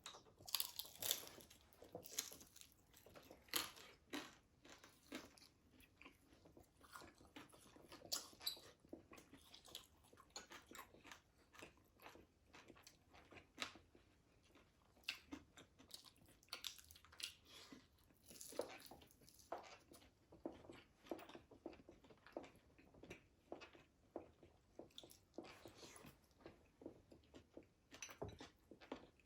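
Close-miked biting and chewing of fried food, pork belly among it, with irregular crisp crunches and mouth clicks.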